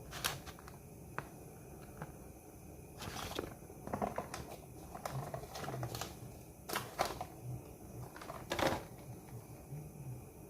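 A utensil clicking, knocking and scraping against a cooking pot as pasta is stirred: scattered sharp clicks with a few short scrapes, the loudest near the end.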